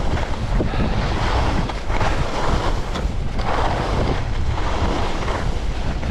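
Wind buffeting a moving camera's microphone: a loud low rumble with a rushing noise that swells and fades about once a second.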